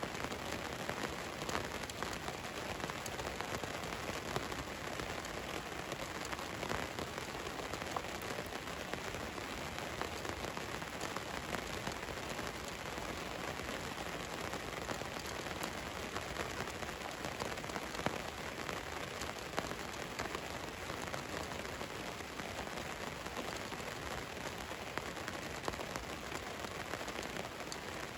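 Steady rain drumming on a van's roof, a dense patter of drops with scattered louder single drips.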